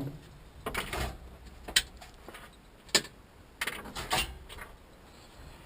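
A handful of sharp knocks and clatters, about five hits spread irregularly over a few seconds, the sound of objects being handled and set down in a workshop.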